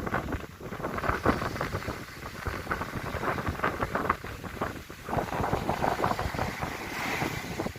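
Strong sea wind buffeting the microphone in irregular gusts, a rumbling rush that rises and falls.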